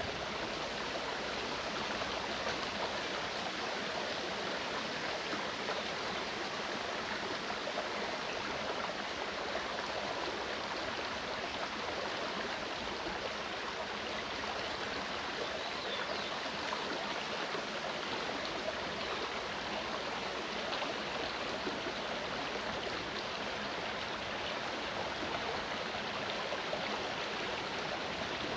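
Clear mountain stream rushing and gurgling over rocks, a steady even water sound.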